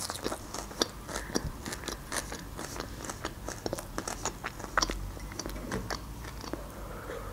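Close-miked chewing of a mouthful of fresh parsley: many small, irregular crunches and wet mouth clicks.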